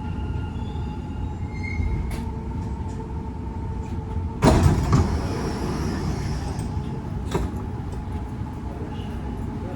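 Dubai Metro train carriage rumbling with a faint steady motor whine, then about halfway through a sudden loud clunk followed by a hiss as the sliding doors open at a station.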